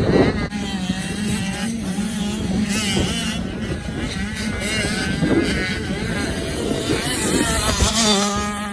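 Motocross bikes' engines racing around the track, revving up and down as they accelerate and shift, with a steady engine note underneath.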